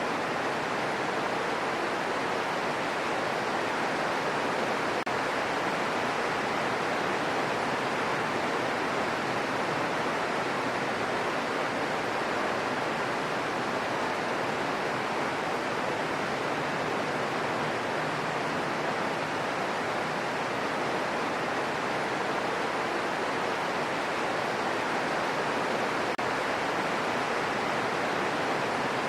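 Steady rain falling, an even unbroken hiss with no single drops, thunder or other sounds standing out.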